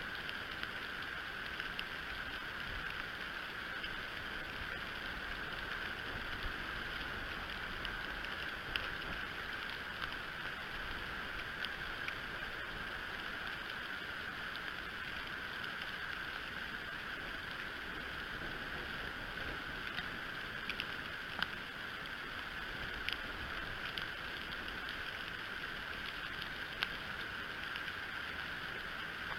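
Steady wind rushing over the nest camera's outdoor microphone on a windy, snowy morning, with scattered faint clicks and ticks through it.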